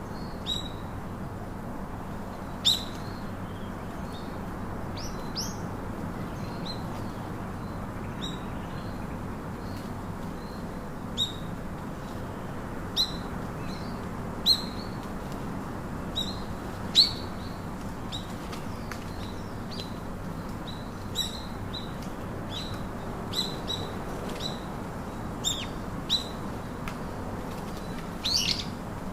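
Birds chirping: short, sharp high chirps at irregular intervals of a second or two, with a quick run of calls near the end, over a steady background hiss.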